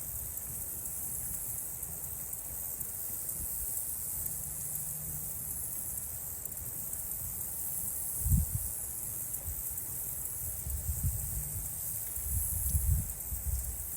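Insects chorusing in a steady, high-pitched drone. Low wind gusts buffet the microphone about halfway through and again near the end.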